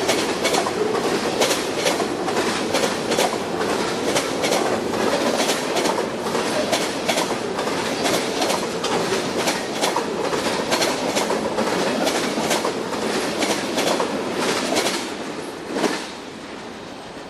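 Freight train rolling past at speed, its wheels clicking quickly and steadily over the rail joints. The sound drops off about fifteen seconds in, and a last clack comes a second later as the end of the train goes by.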